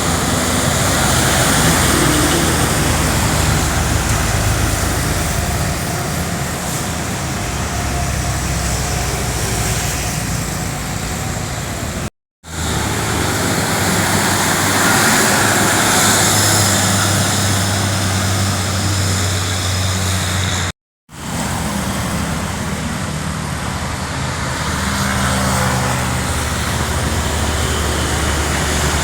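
Heavy trucks' diesel engines droning as they pull uphill, with tyre and road noise. The sound cuts out abruptly twice.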